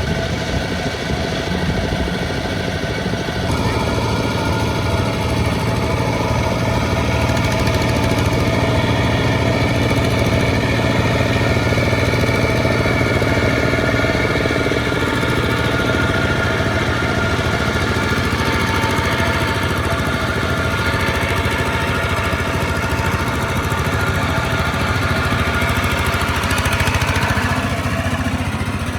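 Diesel engines of small two-wheel tractors running steadily as they haul rice. The engine sound grows fuller and louder about three and a half seconds in.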